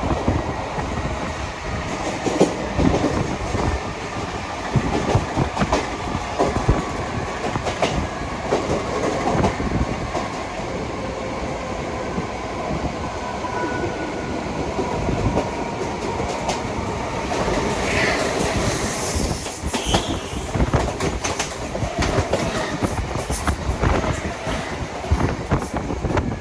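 Mumbai suburban electric local train running at speed, its wheels clattering over the rail joints in a dense steady rhythm. Thin wheel squeals come and go, with a sharper high squeal about eighteen seconds in.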